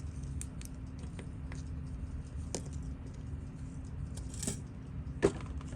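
Sparse small metallic clicks and taps of watchmaking tools and parts being handled during disassembly of a Seiko 6138 chronograph movement, with one sharper click near the end, over a steady low hum.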